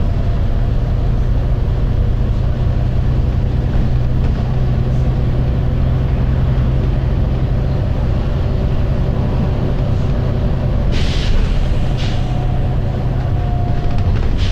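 Volvo B9TL double-decker bus running with a steady low engine drone, broken about eleven seconds in by a short hiss of compressed air from its air system, then a fainter second hiss.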